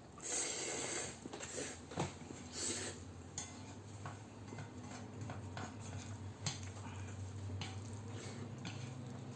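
Close-up mukbang eating sounds of black-bean instant noodles: utensils clicking against the bowl, with short noisy eating sounds in between. The sharpest clicks come about two seconds in and again past six seconds.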